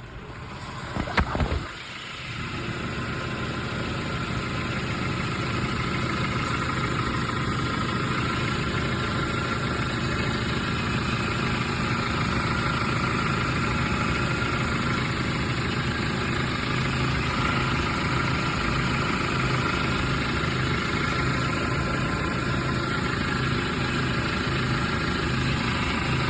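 Car engine starting about a second in, then idling steadily.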